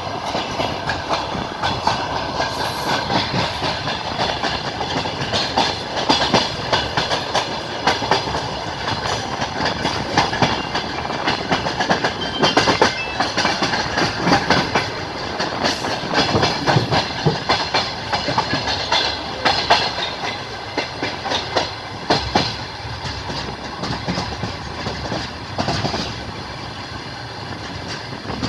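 Passenger train wheels clacking over rail joints under a steady running rumble, heard aboard the moving train. The clatter eases a little near the end.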